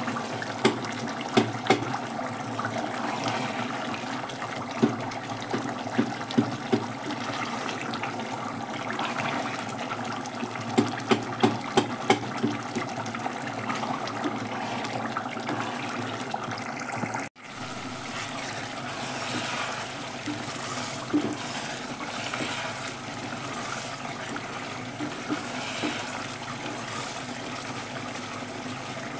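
Watery cooked tomato mixture bubbling and sizzling in an open pressure cooker as it is fried down, its water cooking off, while a wooden spoon stirs it and knocks against the pot many times, most often in the first half.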